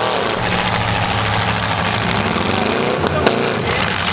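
Demolition derby car engines running and revving, the pitch swelling and falling again over a steady low drone. A single sharp bang comes about three seconds in.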